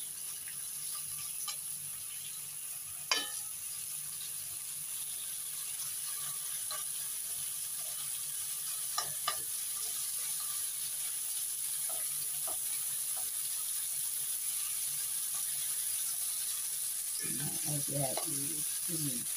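Sliced pork and garlic sizzling in hot oil in a nonstick wok, with a steady high hiss and a few clicks of the spatula against the pan as the meat is stirred.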